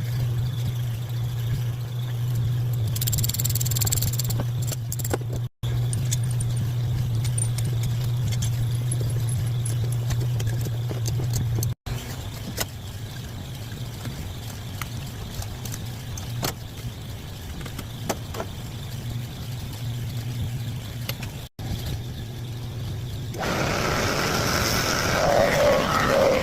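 Steady low motor hum from shop machinery, broken abruptly several times, with a louder hissing noise rising near the end.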